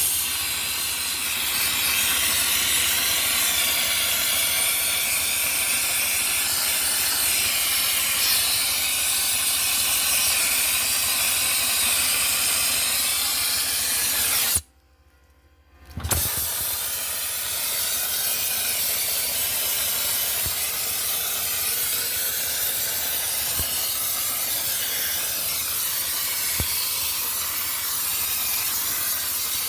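Dry-ice blaster nozzle running: a loud, steady hiss of compressed air and dry-ice pellets. It cuts out for over a second midway, then starts again.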